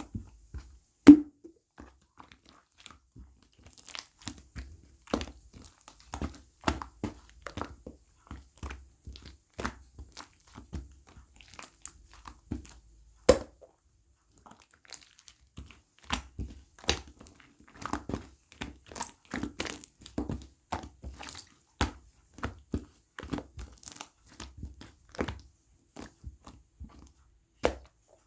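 Irregular crunching and crinkling, a long run of sharp scattered snaps and clicks, the loudest about a second in and near the middle.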